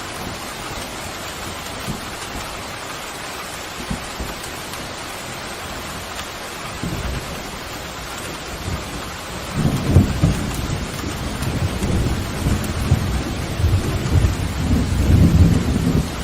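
Steady rain falling, with thunder rolling in about halfway through: deep rumbles that swell and grow loudest near the end.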